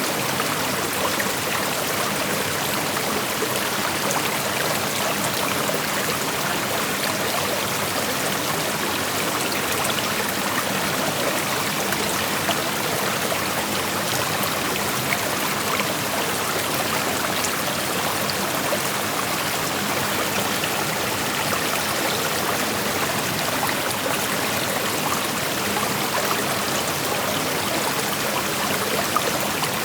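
Creek water flowing and rushing over rocks: a steady, even rush.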